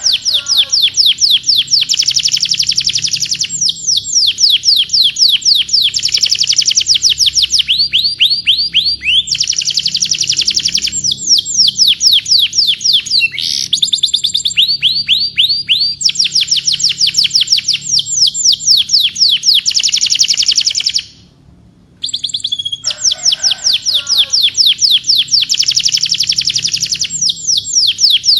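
Domestic canary singing: long, fast trills of repeated high downward-sweeping notes, the phrases changing speed every second or two. The song breaks off for about a second near the three-quarter mark, then starts again with a few lower notes.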